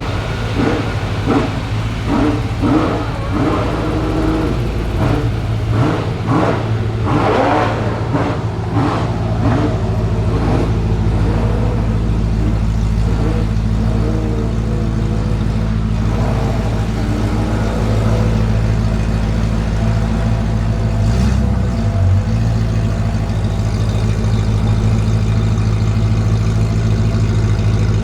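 Ferrari F40 LM's twin-turbo V8 through a straight-pipe exhaust, revved in repeated blips with sharp crackles for the first ten seconds or so, then running at a steady idle.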